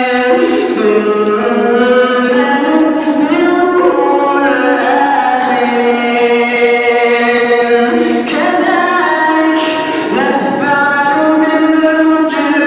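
Male reciter chanting Quran verses in a slow, melodic tajwid style, drawing out long held notes that glide from pitch to pitch, with short breaks between phrases.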